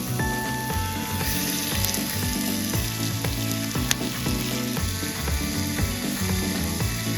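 Food sizzling and frying over the heat, with a few sharp crackles, under background music.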